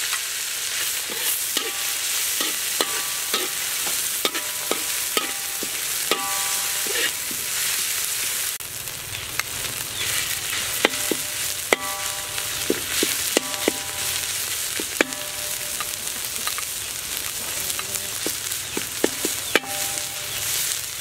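Dried chili flakes and curry paste sizzling in hot oil in a metal wok, the sizzle easing a little about eight seconds in. A metal spatula stirs and scrapes them, clinking against the wok many times with short ringing tones.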